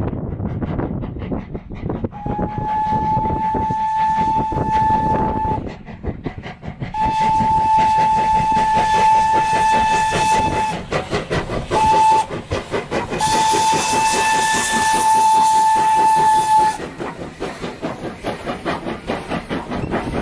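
Steam locomotive whistle blowing four blasts, long, long, short, long, each a single steady tone, over the continuous running noise of the train.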